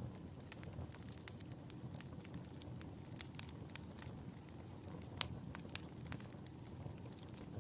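Wood fire burning in a fireplace, a steady low rumble with irregular sharp crackles and pops, the loudest pop a little over five seconds in.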